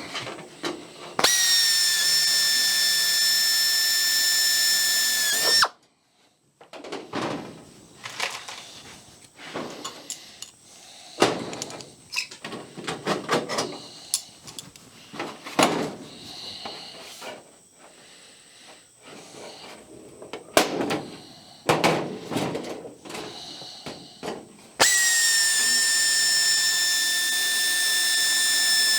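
Power drill running in two bursts of about four seconds each, a steady high whine, drilling holes through the aluminium wing skin and rib. In between come scattered clicks and knocks of parts and tools being handled.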